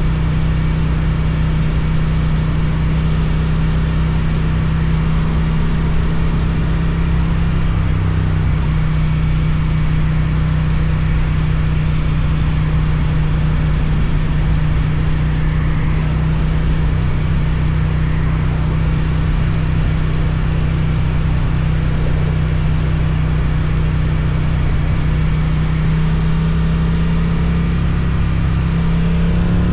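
Suzuki motorcycle's twin-cylinder engine through an Akrapovič exhaust, running at a steady, even engine speed while riding. Its pitch rises slightly near the end.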